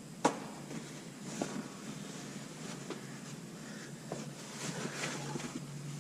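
Handling noises during work on the truck: a sharp click just after the start, then a few lighter taps and some rustling near the end, over a low steady hum.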